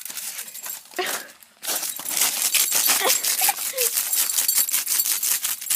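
A shepherd-mix dog scraping and scratching at a block of ice, a rapid run of scratches and clinking ice chips that thickens and grows louder about two seconds in.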